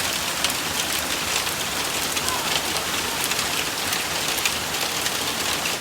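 Steady rain coming down hard on the roof overhead, with many separate drop hits.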